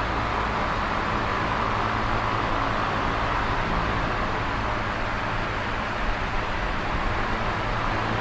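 Electric fan running steadily: an even rush of air from the blades over a low, steady hum.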